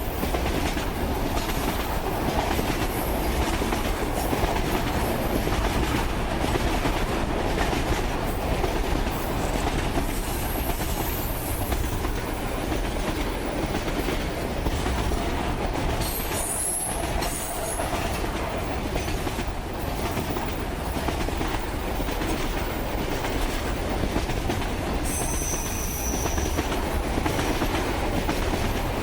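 Freight train cars rolling past on the rails with a steady clatter of wheels, and brief high-pitched wheel squeals a few times.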